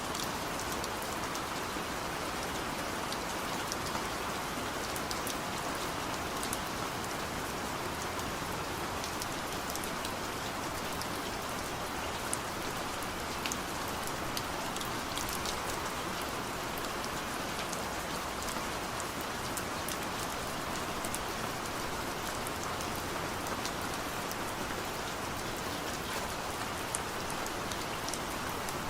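Steady rain falling, an even hiss with many scattered, sharp drop ticks.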